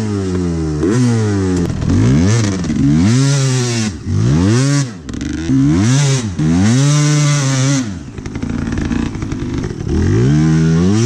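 A 2003 Honda CR250's single-cylinder two-stroke engine revving hard while the bike is ridden. The pitch climbs and drops sharply over and over as the throttle is opened and shut, holds high for about a second past the middle, sinks low about two-thirds of the way through, then climbs again near the end.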